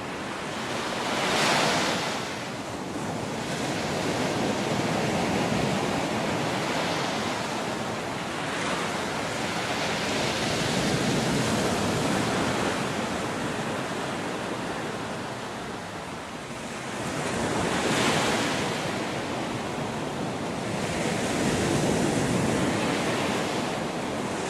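Gulf of Mexico surf breaking and washing up the beach, the noise swelling and easing every few seconds, with louder breaks about a second and a half in and again near 18 seconds. Wind is on the microphone.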